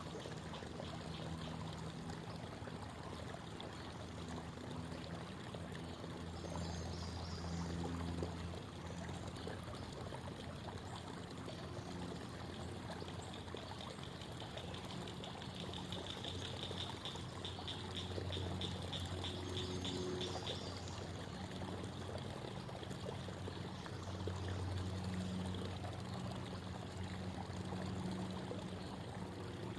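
Creek water babbling and trickling steadily. A low hum swells and fades at times underneath, and a fast high trill sounds for a few seconds near the middle.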